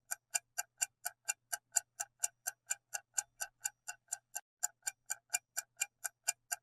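Countdown clock ticking sound effect: steady, even ticks at about four a second.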